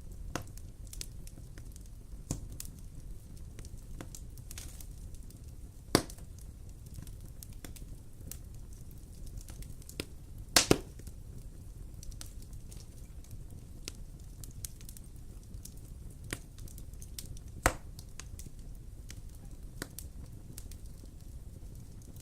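Wood fire burning in a fireplace: a steady low rumble with scattered crackles and sharp pops, the loudest about six seconds in, a quick double pop near the middle, and another later on.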